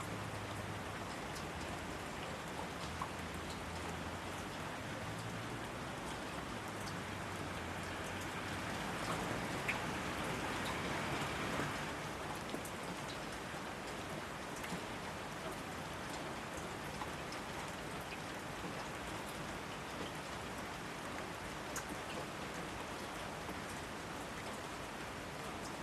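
Steady rain falling, with scattered individual drops pattering; it swells a little louder around the middle.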